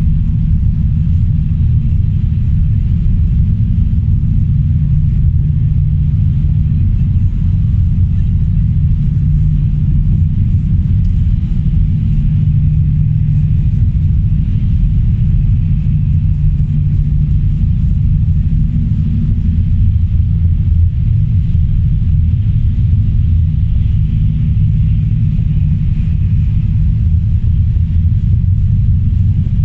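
Steady low rumble of a car being driven, the sound of its engine and tyres on the road.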